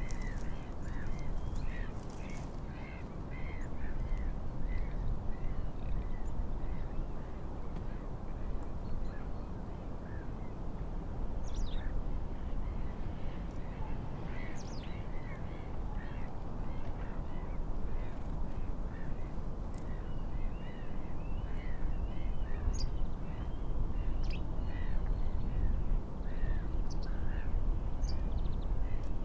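Wind and waves as a steady low rushing hiss, with birds calling over it: runs of short repeated calls and a few sharp high chirps.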